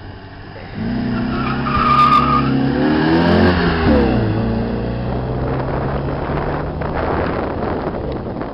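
Opel Manta launching hard from a sprint start: the engine revs up with a short tyre squeal about two seconds in, drops in pitch at a gear change near four seconds in, then runs at high revs as the car passes and pulls away.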